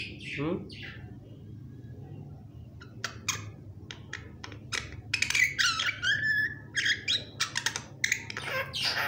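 A pet myna calling: a run of short, sharp chirps and clicks with a few whistled gliding notes, busiest about halfway through and again near the end.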